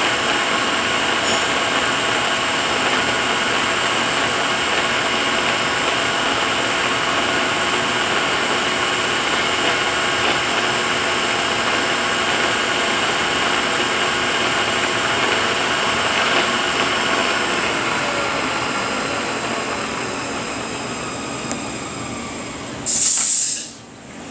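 Rebuilt Eaton EEO-18F112C truck transmission running on a test dyno, a steady whine of meshing gears with several fixed tones. It winds down over the last several seconds, and a short loud hiss of air comes near the end.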